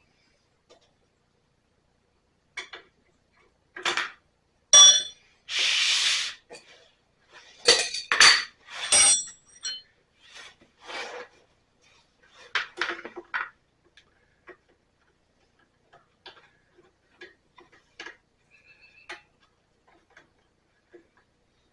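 Hand tools clinking and scraping against metal engine parts in a run of irregular sharp clicks and clanks, loudest in the first half. A hiss lasting over a second comes about five seconds in.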